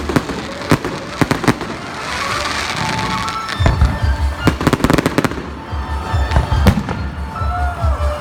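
Festive fireworks display: shells bursting with sharp bangs and crackle, a quick run of bursts around the middle, over music with a pulsing bass that comes in about halfway through.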